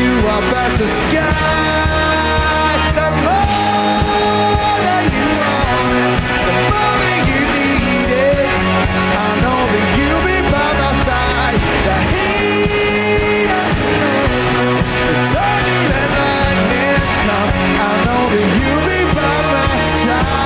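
Live rock band playing loudly and continuously, with electric guitars and drums.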